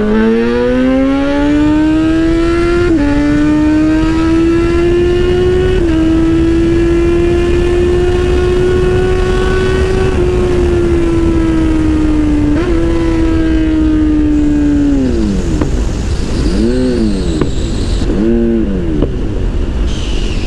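Kawasaki Z800's inline-four engine through a free-flowing aftermarket exhaust with no dB killer, pulling hard through the gears: the pitch rises, then holds high with about four brief breaks as the quickshifter snaps through upshifts. About fifteen seconds in the revs fall away as the throttle closes, followed by a few short revs that rise and fall.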